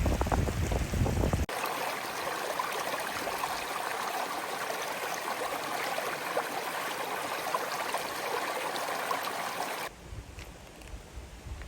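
Stream water flowing steadily, with a low rumble before it that cuts off abruptly about a second and a half in; near the end it cuts abruptly to a quieter low rumble.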